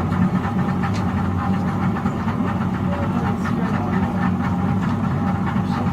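Boat engine running steadily: an even, low hum.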